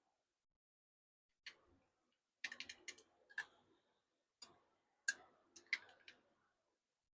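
Irregular sharp clicks and light taps of small hard objects being handled, some in quick clusters of three or four.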